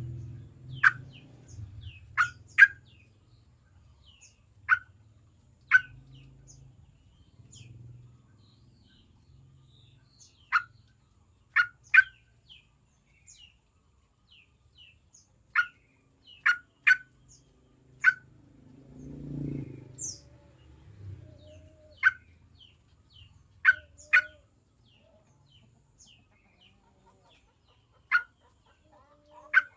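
Yellow-vented bulbul giving short, sharp, down-slurred call notes at irregular intervals, about seventeen in all, some in quick pairs. A low rumble rises and fades about two-thirds of the way through.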